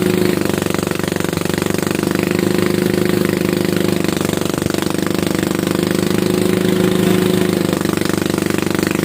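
Engine of rice-harvesting machinery running steadily, a loud rapid even pulsing over a deep hum.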